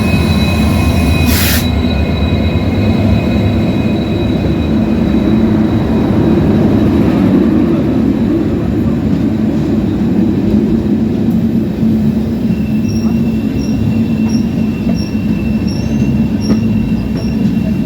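Diesel train running on a steep ghat line: a steady, loud engine and rolling drone with high, steady wheel squeal, which fades early on and returns about two-thirds of the way through. A short hiss sounds about a second and a half in.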